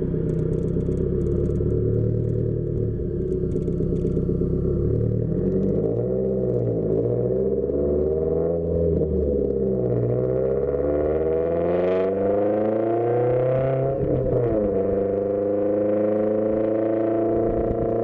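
Subaru WRX exhaust with an aftermarket system, running steadily at first, then the pitch climbs as the car accelerates, drops sharply at a gear change about 14 seconds in, and slowly rises again as it pulls in the next gear.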